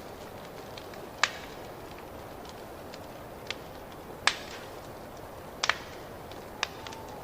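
Wood fire crackling over a steady hiss, with small crackles throughout and a few sharp pops: one about a second in, one past four seconds, two in quick succession near six seconds, and one near the end.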